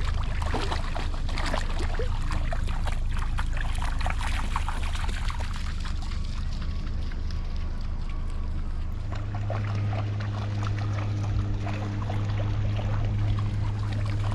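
Shallow lake water splashing and trickling at the shoreline, with irregular small splashes throughout. A steady low rumble runs underneath and grows stronger about nine seconds in.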